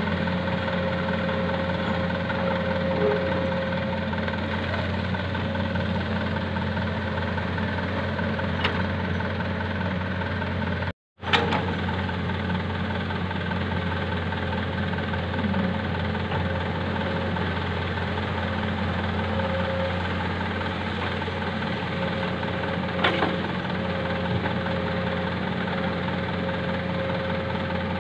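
Heavy diesel engine running at a steady speed, with a few faint knocks, cutting out for a moment near the middle.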